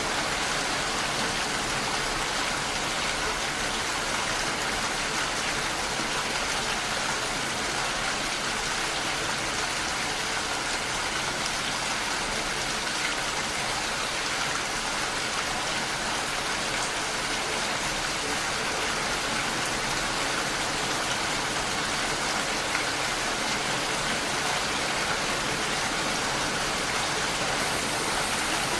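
Steady rain falling, an even continuous hiss of drops on surfaces.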